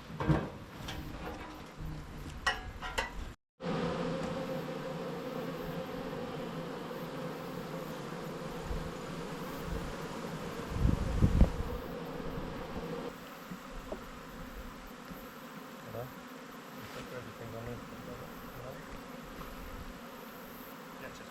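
Many honeybees buzzing around an opened hive: a steady, many-voiced hum. A few knocks sound in the first seconds, and a louder low thump about eleven seconds in.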